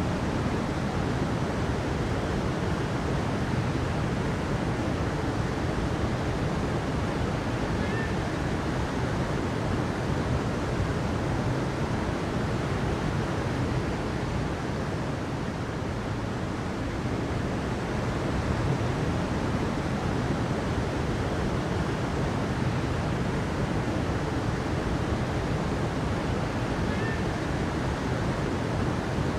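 Steady rushing water, an even unbroken wash of sound with no rise and fall of waves. Two faint short high chirps sound over it, about eight seconds in and near the end.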